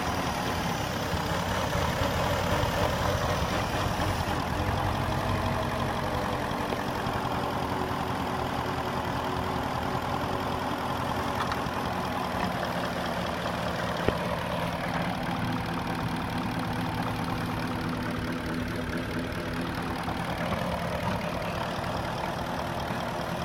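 Porsche Cayenne's 4.5-litre M48.00 V8 engine idling steadily, with one brief click about fourteen seconds in.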